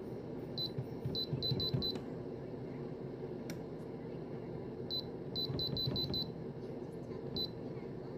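Air fryer touch control panel beeping as its buttons are pressed, short single-pitch beeps in quick, uneven runs. One run comes about a second in, another around five to six seconds in, and a last beep near the end, over a steady low hum.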